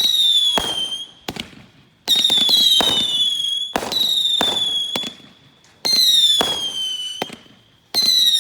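Consumer firework cake firing whistling shots about every two seconds: five shrill whistles, each falling slightly in pitch over about a second and a half, with sharp cracks from the shots between them.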